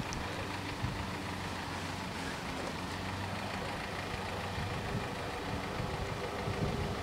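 Car engine idling steadily at a low hum, with light wind buffeting the microphone now and then.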